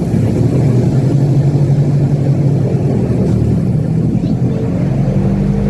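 Airboat engine and propeller running steadily at low speed, a loud, even low-pitched hum.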